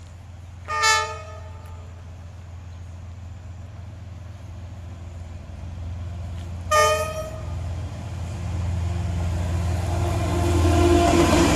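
D19E diesel-electric locomotive sounding two short horn toots about six seconds apart, then its engine and wheels growing steadily louder as the train approaches.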